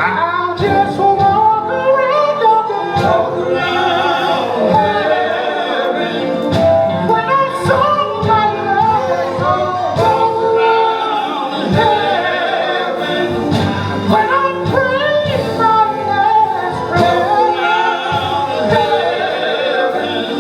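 Live gospel quartet singing with band accompaniment: male voices carrying a melismatic lead over backing harmonies, with bass and regular drum hits underneath.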